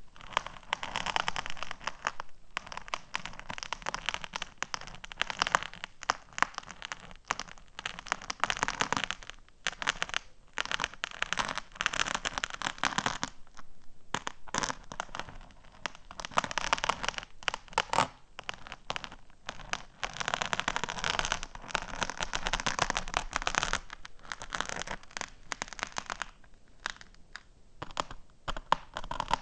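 Rapid fingernail tapping and scratching on small hard objects, ASMR-style, in dense crackly runs of a few seconds with brief pauses between them.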